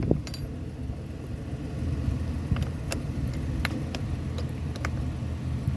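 Scania diesel engine running steadily at idle, with a few sharp clicks over the top.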